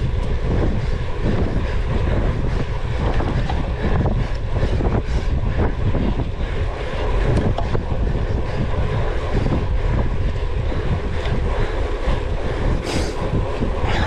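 Wind buffeting the microphone as a cyclocross bike is ridden at race pace, with steady rumble and frequent small knocks and rattles from the bike over rough ground, and a short hiss near the end.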